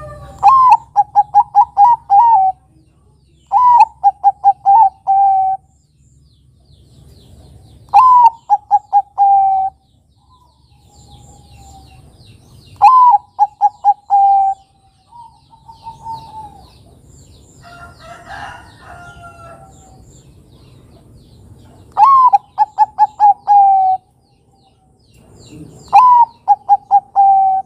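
Zebra dove (Bangkok-type perkutut) cooing its song six times, a few seconds apart. Each phrase is a high opening note, a quick run of short staccato coos and a longer closing coo.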